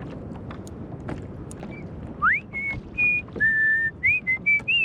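A person whistling a short tune. It opens with a rising swoop a little over two seconds in, then runs through several short held notes at different pitches, and ends with a falling glide.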